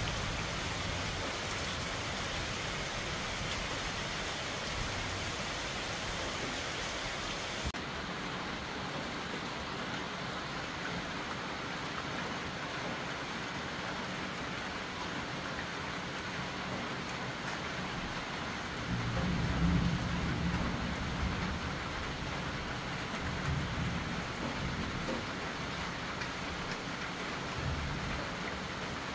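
Steady heavy tropical rain falling on trees and foliage, with low rolls of thunder about two-thirds of the way through and again near the end. About eight seconds in the rain turns duller, heard through a rain-spattered windowpane.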